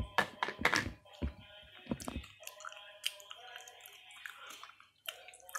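Close-up chewing of a chocolate bar: a cluster of loud bites and crunches in the first second, then quieter, wetter chewing with a few sharp clicks.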